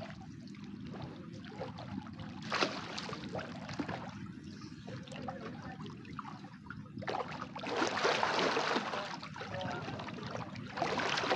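Water splashing and trickling as a person bathes in a lagoon. The splashing gets louder about two and a half seconds in and again from about seven seconds in.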